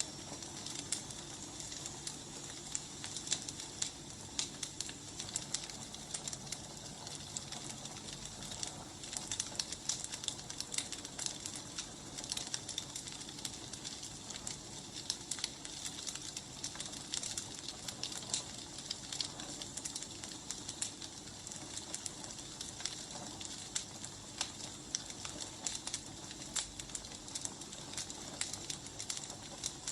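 Wood fire crackling steadily, with a constant soft hiss and many irregular small pops and snaps.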